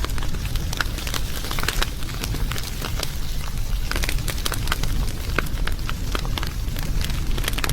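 Wood fire burning, crackling and popping with many sharp, irregular snaps over a steady low rumble.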